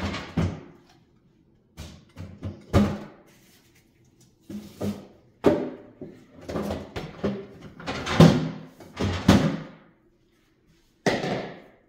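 Food packages and containers being set into a refrigerator: a series of plastic clunks and knocks with rustling between them, the last clunk about a second before the end.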